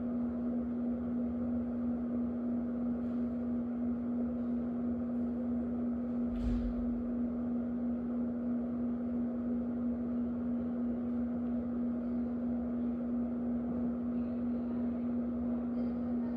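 Electric fan running steadily: a constant hum under an even whoosh of moving air. A brief soft bump about six and a half seconds in.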